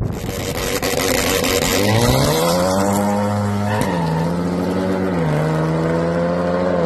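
Cars accelerating hard in a race, heard from behind as they pull away. After a rush of noise, an engine note rises from about a second and a half in, drops sharply at gear changes near four and five seconds, and climbs again after each.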